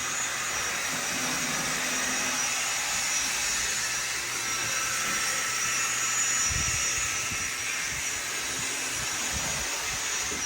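Model Union Pacific GTEL 8500 gas turbine locomotive's sound system playing a steady turbine rush and whine while the model runs at full throttle.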